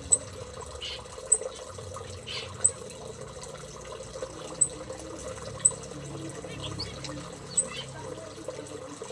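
Aviary birds giving short, sharp high chirps every second or two, with fainter twittering calls among them, over a steady trickle of running water.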